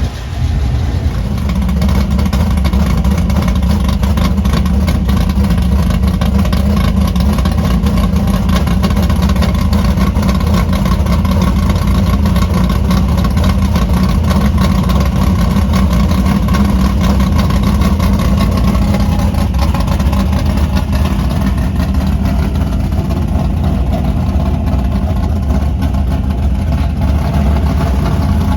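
Dirt-track race car engine running loud and steady, its pitch rising and falling in the latter part.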